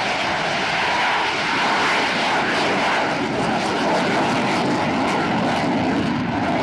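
Loud, steady roar of an airplane's engines as it flies past during an air-show display.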